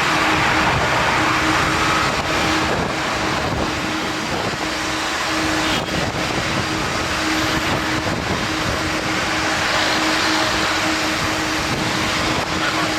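Jet airliner engines running loud and steady, with a steady low hum under the noise.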